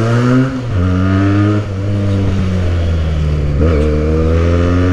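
Modified Benelli motorcycle engine and exhaust accelerating through the gears, the note climbing in pitch and dropping back briefly at each upshift, three times.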